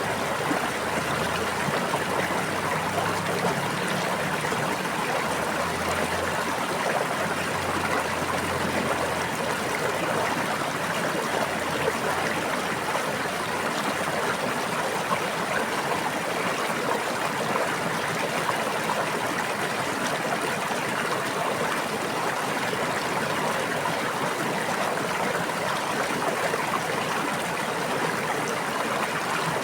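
Steady running water of a stream or brook, a continuous even rush and babble that doesn't change in level.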